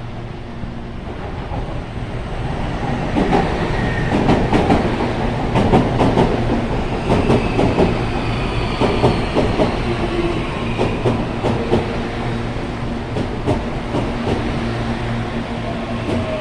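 CPTM Série 8500 electric multiple-unit train pulling into a station platform, its wheels clacking over rail joints. Its motor whine slides down in pitch as it brakes.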